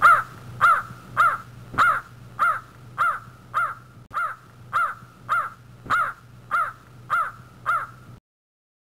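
A bird calling over and over: about fourteen evenly spaced calls a little over half a second apart, over a faint low hum, cutting off suddenly about eight seconds in.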